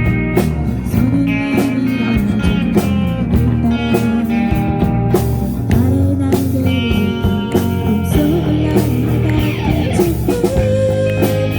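Band music led by guitar in a passage without lyrics, with a steady rhythm of beats throughout.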